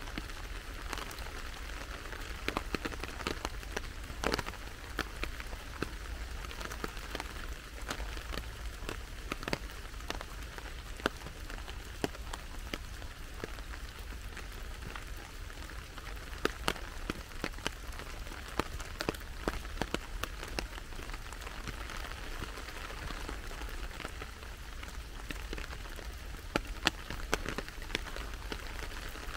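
Steady rain falling, with many sharp ticks of individual drops landing close by.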